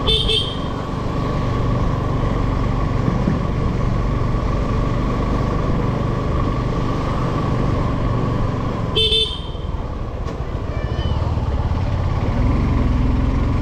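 Motorcycle running on the road with steady engine and road noise. A vehicle horn toots briefly twice, once at the very start and again about nine seconds in.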